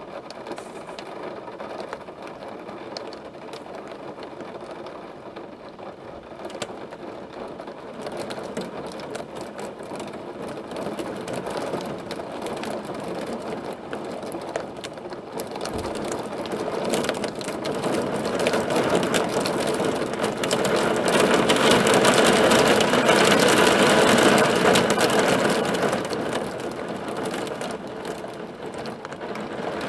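Hailstones drumming on a hard surface in a dense, rapid patter that builds to its loudest about two-thirds of the way through, then eases.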